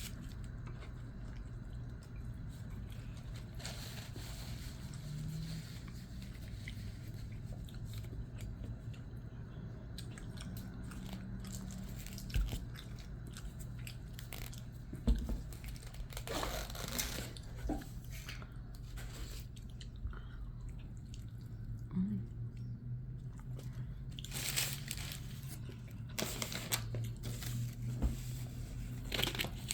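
Close-up eating sounds of a burrito with ground beef, cheese and rice: irregular bites, crunches and wet chewing, busier in the second half, over a steady low hum.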